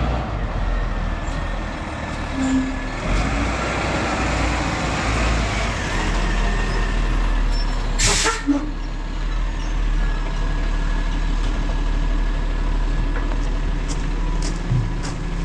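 Autocar ACX garbage truck's diesel engine running steadily, with a short, loud hiss of released air about eight seconds in.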